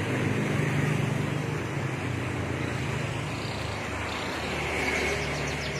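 A motor vehicle's engine running steadily with road noise, its hum dipping briefly midway. Faint high bird chirps come in near the end.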